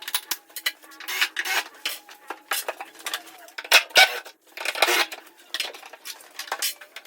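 Irregular clatter of hard objects being handled: many sharp clicks and knocks at uneven intervals, with two louder knocks about four seconds in.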